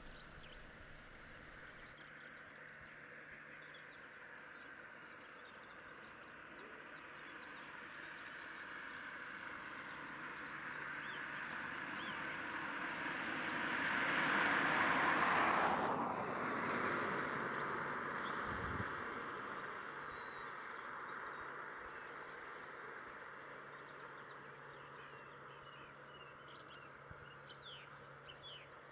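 A vehicle passing: a broad rushing noise swells slowly to a peak about halfway through and then fades away, while small birds chirp faintly in the background.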